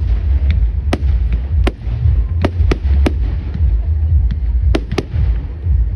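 Fireworks going off: about ten sharp bangs and cracks at irregular intervals, over a steady low rumble.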